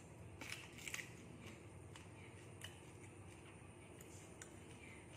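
Faint crunchy biting and chewing of food close to the microphone, with a few crisp clicks in the first second, then softer chewing ticks.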